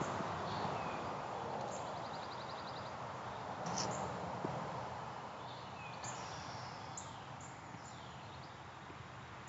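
Wild birds singing and calling: short high chirps, several downward-sliding whistles and a quick trill, over a faint outdoor background.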